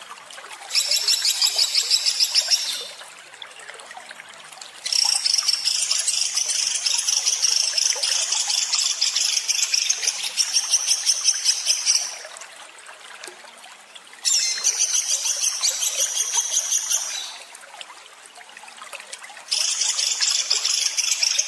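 A songbird singing bouts of harsh, rapid-fire 'tembakan' notes: fast rattling trains of high notes, each bout lasting a few seconds. There are four bouts, with short pauses between them.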